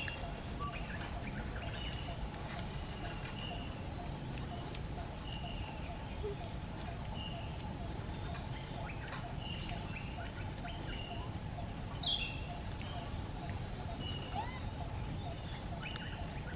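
A bird chirping repeatedly, one short high chirp about every second, over a steady low rumble. About twelve seconds in comes a single louder squeak that rises and falls.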